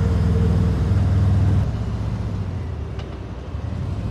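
Harley-Davidson Road Glide's V-twin engine running on the road, with wind and road noise. About one and a half seconds in the engine note drops and quietens, then builds again near the end.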